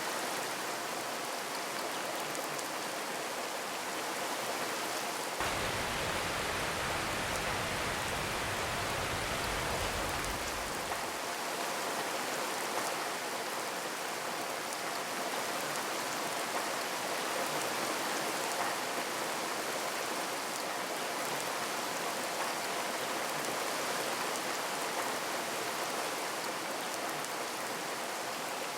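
Steady rain, an even hiss of drops on a surface. For about six seconds, starting about five seconds in, a deeper low rumble joins it, then drops away.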